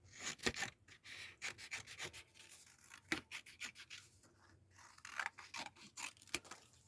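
Paper being handled and rubbed down on a journal page: a run of short, scratchy rustles and rubs.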